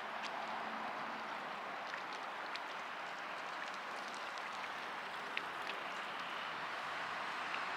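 Steady outdoor background noise, with scattered faint, short high ticks or chirps over it.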